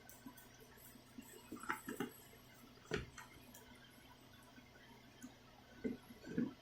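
Faint scattered clicks and soft knocks of small objects being handled, with one sharper click about three seconds in.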